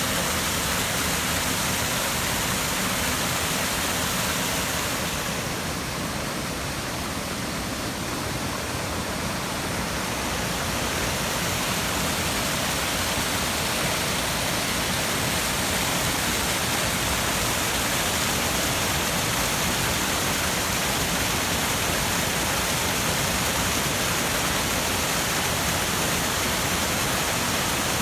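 Steady rain falling, a dense even hiss that eases slightly for a few seconds about five seconds in.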